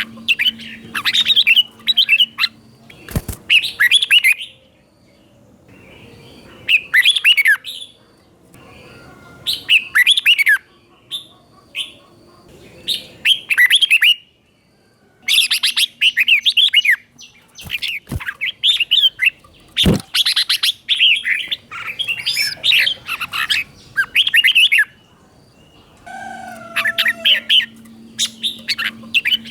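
Red-whiskered bulbul singing its doubled (เบิ้ล) song: bursts of short, quick, warbled phrases with brief pauses between them. These are a tutor bird's phrases, played for young birds to copy. Two sharp knocks sound about 3 seconds in and again near the middle.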